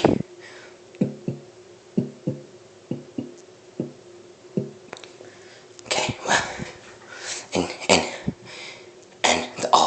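A heartbeat, most likely mouthed by the narrator: soft paired low thumps, a beat-beat about once a second. About six seconds in it gives way to a few seconds of louder, sharper rustling and knocking noises.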